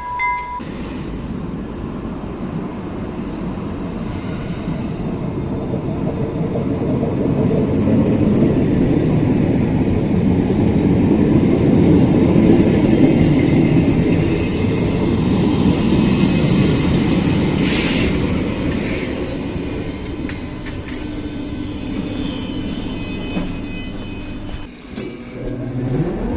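Narrow-gauge electric train running on its rails, the rumble swelling to its loudest about halfway and then easing off. A short hiss comes about two-thirds of the way in, and a rising motor whine near the end.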